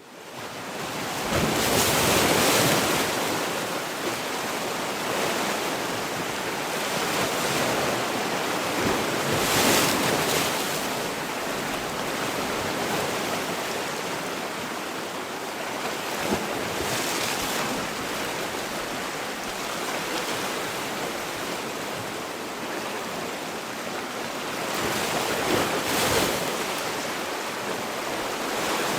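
Sea waves breaking and washing in, the surf swelling up four times, several seconds apart, over a steady rush of wind.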